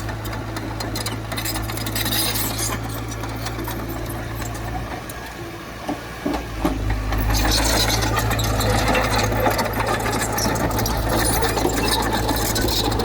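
Heavy diesel earthmoving machinery running, with a steady low engine drone and metallic rattling. The engine drops away briefly near the middle, then comes back louder and busier.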